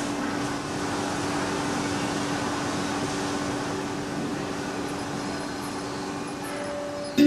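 A steady mechanical hum with an even hiss, like a fan or motor running, then a single sharp strike right at the end.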